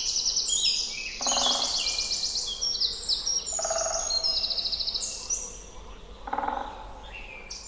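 Dawn chorus of several songbirds singing at once: rapid, high trills and warbles overlapping without pause. A lower, rapidly pulsed call sounds three times among them.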